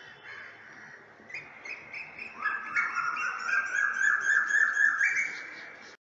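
Birds chirping in quick repeated high notes, growing louder about two seconds in; the sound starts and cuts off abruptly, like an inserted sound clip.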